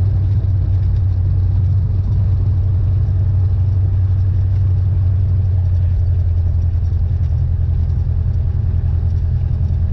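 Cessna 172N's four-cylinder Lycoming piston engine and propeller running steadily, heard from inside the cabin as a constant drone.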